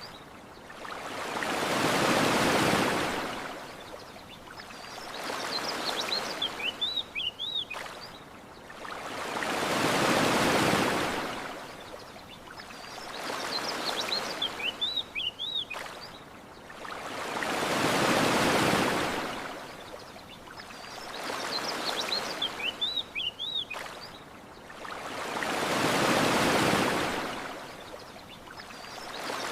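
Surf washing onto a beach in slow swells, a bigger wave about every eight seconds with a smaller one between. Short runs of high bird chirps fall in the lulls. The same pattern repeats exactly each cycle, a looped recording.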